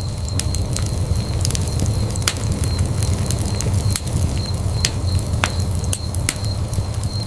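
Wood fire burning in a fireplace: a steady low rumble of flames with irregular sharp crackles and pops, roughly one or two a second.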